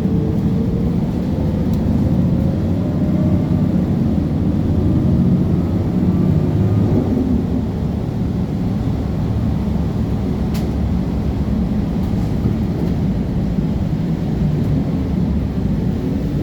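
City transit bus running, with a steady low engine and driveline rumble and faint tones that rise and fall as it changes speed.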